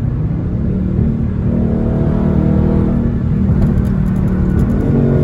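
Dodge Charger Scat Pack's 392 V8 with a muffler delete, running under load on the move, its engine note climbing a little about a second and a half in and again near the end.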